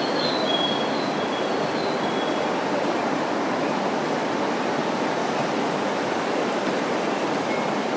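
Steady noise of a train at the station platform, with a few brief thin high squeals in the first two seconds or so and a faint one near the end.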